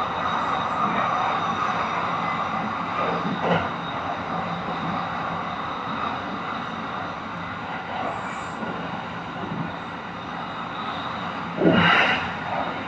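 Kintetsu Iseshima Liner limited express electric train running at speed, heard inside the passenger car as a steady rumble and hiss with faint motor tones. A brief louder burst of noise comes near the end.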